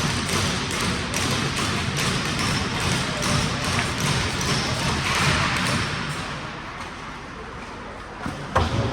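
Game sounds in an ice rink: a steady noisy wash with repeated sharp clicks and knocks from sticks and puck, easing off partway through, then one loud sharp knock near the end.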